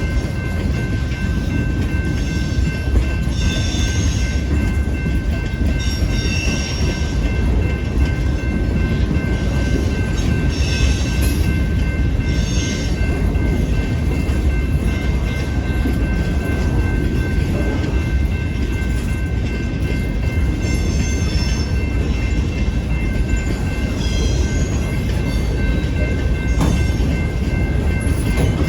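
Freight train cars rolling past with a steady low rumble, with short high-pitched wheel squeals every few seconds.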